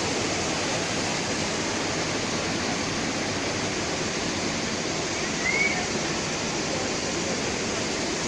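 Waterfall pouring into a pool: a steady rush of falling water, with one short high chirp a little past halfway.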